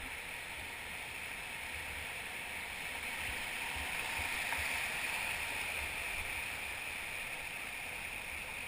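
Whitewater river rushing around a raft: a steady hiss of moving water that swells a little in the middle.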